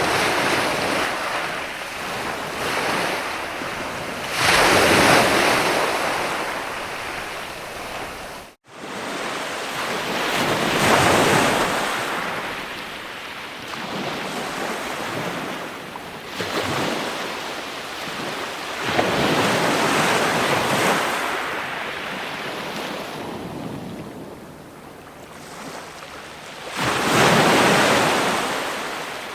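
Ocean waves breaking and washing ashore, swelling louder about every five to six seconds over a steady hiss of surf and wind. The sound cuts out for a split second about a third of the way through.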